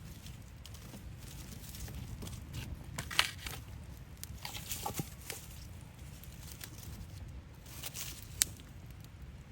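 Scattered light clicks and knocks of things being handled, with two sharper clicks about five seconds apart, over a steady low rumble.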